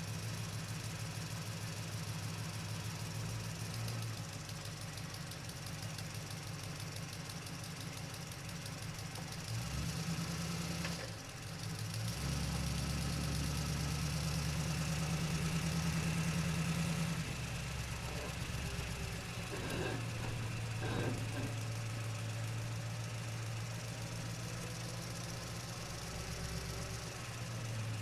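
A vehicle engine idling steadily with a low, even rumble. It gets louder for a few seconds around the middle.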